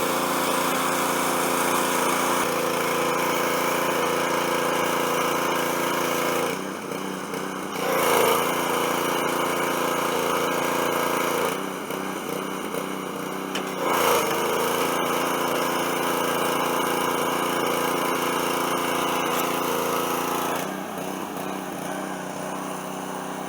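Gasoline engine of a Honda-powered Simpson 3300 PSI pressure washer running steadily, its note shifting slightly now and then as the spray starts and stops.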